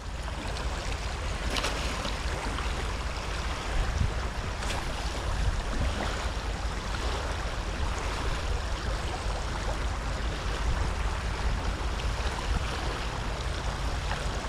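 Steady rushing noise of wind and moving water, with low wind rumble buffeting the microphone.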